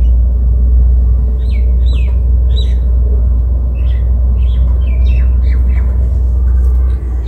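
Small birds chirping, a series of short calls between about one and a half and five and a half seconds in, over a loud, steady low rumble.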